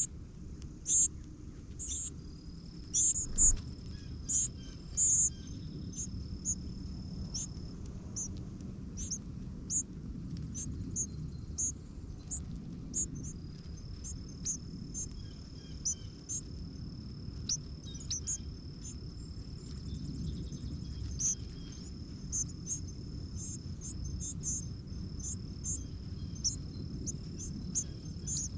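Small birds chirping in short, high, repeated calls, over a steady high-pitched insect trill that stops for several seconds early on and then resumes.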